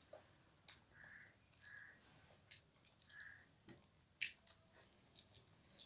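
Quiet chewing and mouth smacks of people eating steamed chicken momos by hand, with a few sharp clicks, the loudest about four seconds in, over a faint steady high whine.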